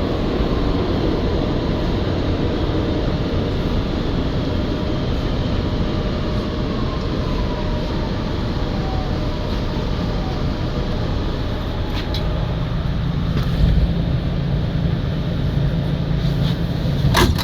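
Inside an R211A subway car: steady train rumble and hiss, with a faint falling whine around the middle. A low steady hum comes in about two-thirds of the way through, and a few sharp clicks follow near the end.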